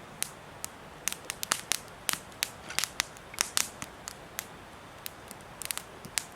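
Wood fire crackling, with irregular sharp pops and snaps over a quiet background.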